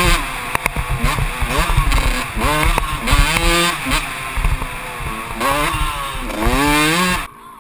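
Kawasaki KX125's two-stroke single-cylinder engine under riding, its pitch climbing and dropping again and again as the throttle is worked. About seven seconds in the engine sound falls away abruptly.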